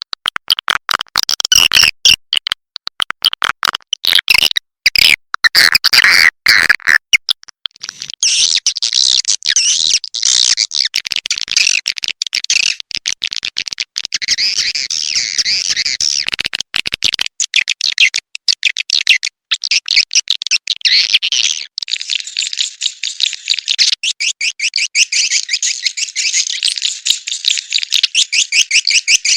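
Swiftlet calls played as a lure for a swiftlet house: high, rapid chirping and clicking twitters. They start choppy and broken, turn into dense continuous twittering after a few seconds, and settle into a steady fast trill near the end.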